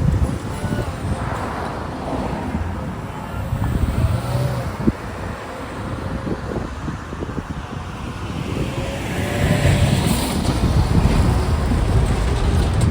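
Road traffic, cars driving past close by one after another, each swelling up and fading away.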